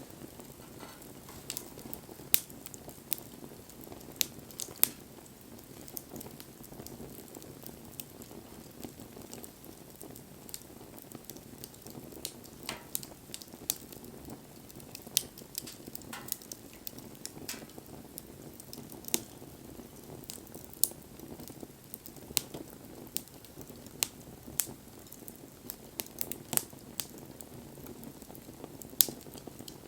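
Wood fire burning, crackling with sharp irregular pops over a steady low rush of flame.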